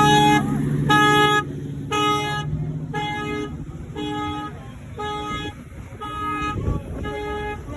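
Car horn sounding in evenly spaced blasts, about one a second.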